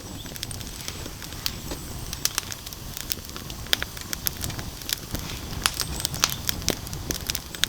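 Heavily stacked firewood burning in a fire pit, crackling with sharp, irregular pops over a steady low rumble of flame.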